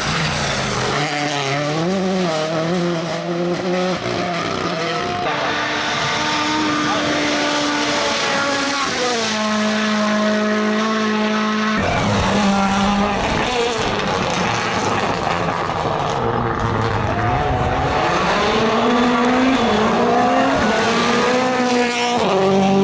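Rally car engine at high revs, its pitch holding and then dropping abruptly several times as it shifts gear, with tyre squeal mixed in.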